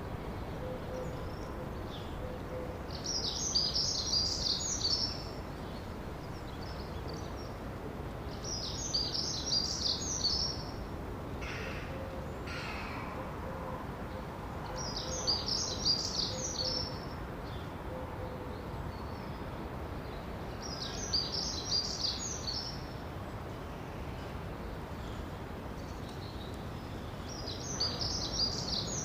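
A songbird singing the same short, high, twittering phrase about every six seconds, five times, over steady background noise.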